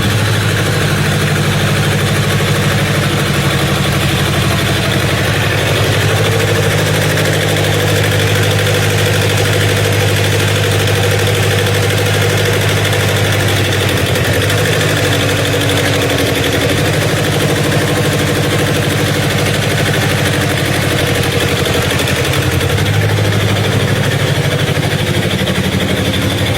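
Shibaura SD2200 tractor's diesel engine idling steadily, its pitch shifting slightly now and then.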